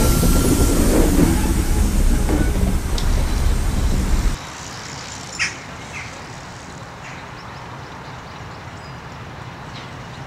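Railway passenger coaches rolling past at close range, a loud rumble of wheels on the rails with clicking over the rail joints. It cuts off abruptly about four seconds in to a much quieter steady background with a couple of brief high chirps.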